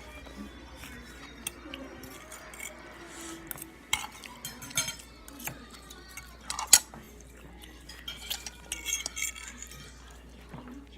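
Cutlery clinking and scraping against dishes during eating: a scattering of sharp clinks, the loudest about two-thirds of the way through.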